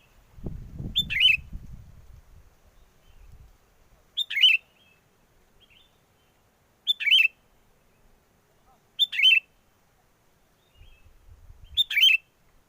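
Sooty-headed bulbul giving a short two-part call five times, about every two to three seconds. A low rumble of wind on the microphone comes in near the start and again near the end.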